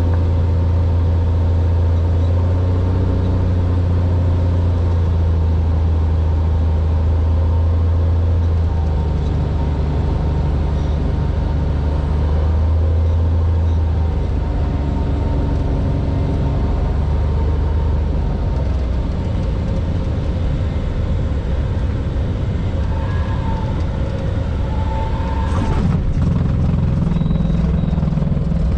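Cessna 182R's six-cylinder piston engine and propeller running steadily as a deep drone, its pitch shifting slightly a few times. There is a short click near the end.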